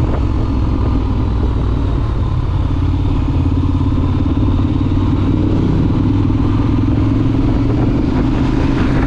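Triumph Scrambler 1200 XC's 1200 cc parallel-twin engine running steadily, with a firmer, fuller exhaust note from about three seconds in.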